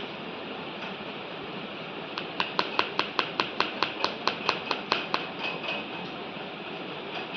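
Parrot crunching puffed rice (murmura) in its beak: a quick, even run of about fifteen sharp clicks, roughly five a second, lasting about three seconds, over a steady hiss.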